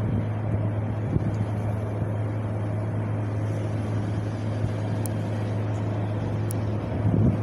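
Wind blowing steadily, with low gusts buffeting the microphone at the start and again near the end, over a constant low hum.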